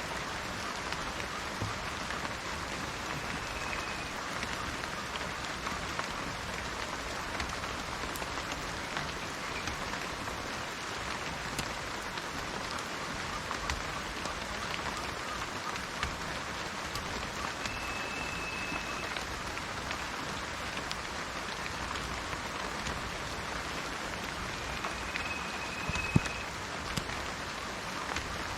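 Steady rain falling on garden foliage and trees, a constant hiss dotted with individual drop ticks, and one sharper, louder tap near the end.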